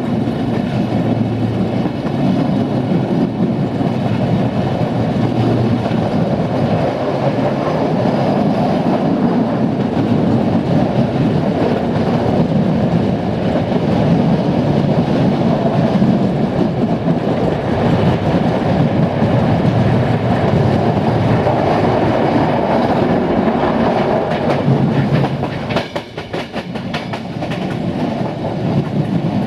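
Passenger train running along the track: a steady rumble of wheels on rail with clickety-clack over the rail joints. The noise dips briefly near the end.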